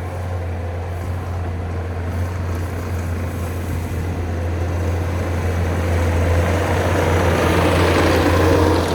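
Skid steer engine running steadily with a deep hum, getting louder over the last few seconds as the machine is worked harder.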